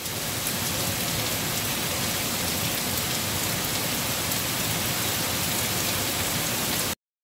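Steady rain falling on tree leaves: an even, dense hiss with faint ticks of single drops. It cuts off abruptly near the end.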